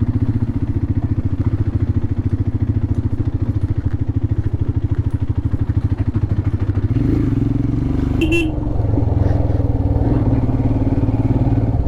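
Royal Enfield Himalayan's 411 cc single-cylinder engine running on the move, with a steady beat of firing pulses. About seven seconds in the engine note rises as the bike picks up speed, and a brief high tone sounds shortly after.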